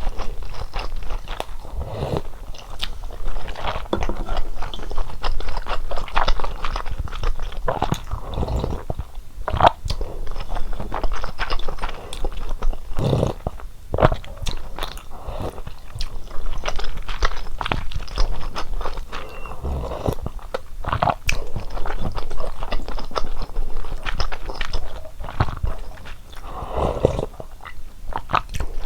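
Close-miked eating: a person biting and chewing through a meal of fish cake soup, with a steady, irregular run of crunchy bites and chewing clicks.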